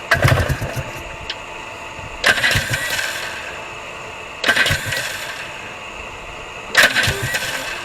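A two-stroke quad (ATV) engine on choke, being started: it fires in four sharp bursts about two seconds apart, each dying away quickly, as it struggles to keep running.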